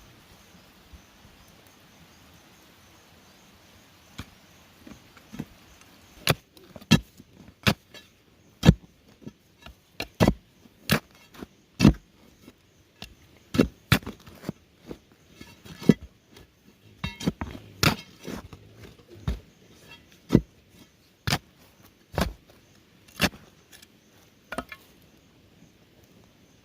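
Repeated sharp tool strikes on bamboo, about twenty blows at roughly one a second, uneven in strength, starting about four seconds in.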